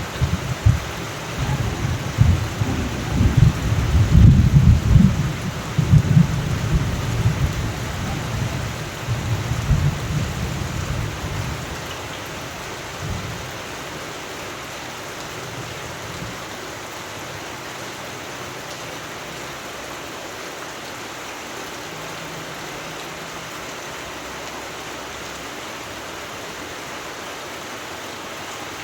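Steady rain with thunder rumbling through the first part; the thunder dies away about halfway through, leaving only the rain.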